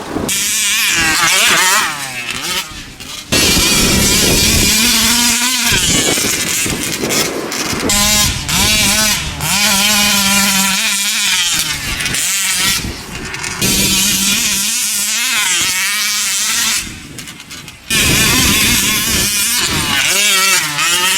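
Taylor 46 GT two-stroke gas engine of a large-scale RC car, revving hard in repeated bursts and falling back between them, with a few steadier lower stretches and two brief drops in level.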